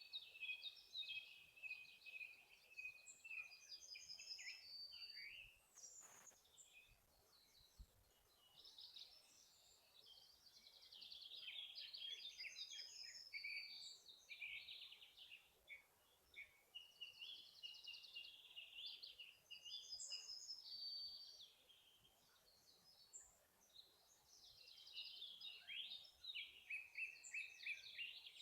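Several songbirds singing over one another in woodland: quick trills, chirps and short whistled phrases, high-pitched, coming in waves with brief lulls.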